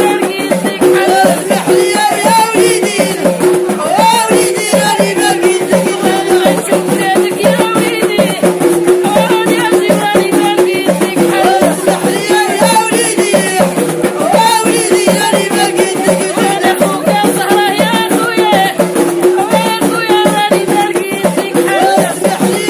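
A woman singing a Moroccan folk song over fast, dense hand percussion and rattles, with one steady note held underneath throughout.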